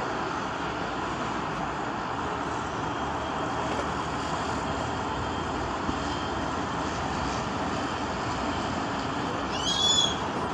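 A car wash running, giving off a steady rushing noise. A short high chirp sounds near the end.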